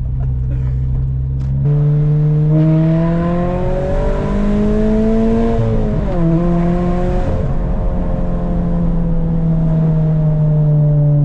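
Toyota 86's flat-four engine running through a Remark cat-back exhaust, noticeably loud. The revs step up and climb under throttle, break for a quick gear change about six seconds in, then ease slowly down.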